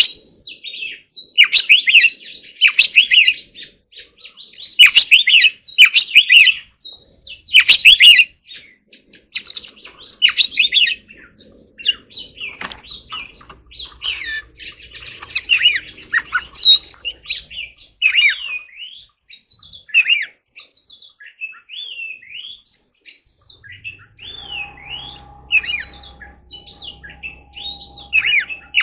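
Oriental magpie-robin singing a long run of loud, varied whistled phrases, some rising and some falling, with short pauses between them. About 24 seconds in, a faint steady hum starts under the song.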